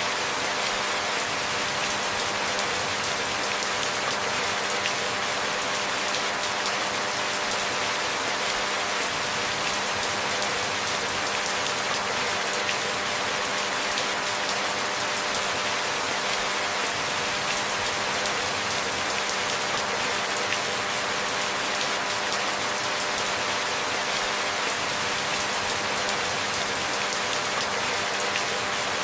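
Steady rain: an even hiss with a dense patter of individual drops, with a few faint steady hum tones underneath.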